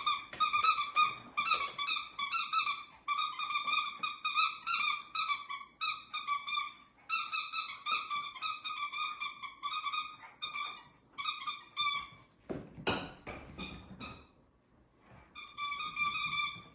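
A squeaky dog toy squeaked over and over in quick runs as a Yorkshire Terrier puppy bites on it, each squeak at the same high pitch. A few knocks come about two-thirds of the way through, then a short pause and one more run of squeaks near the end.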